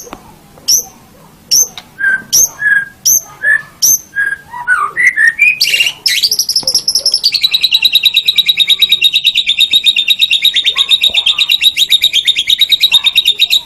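White-rumped shama (murai batu) singing: a string of separate sharp, sweeping whistled notes, then from about six seconds in a long, fast rattling trill held at one pitch that cuts off suddenly at the end.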